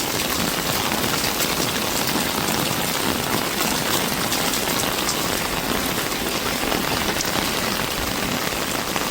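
Steady rain falling, a dense, even patter of many small drops hitting the surface.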